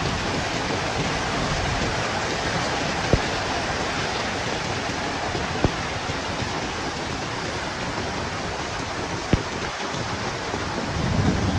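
Heavy storm rain and wind making a steady hiss, with three sharp clicks spread through it, like large drops striking something hard. A low rumble of thunder begins to swell near the end.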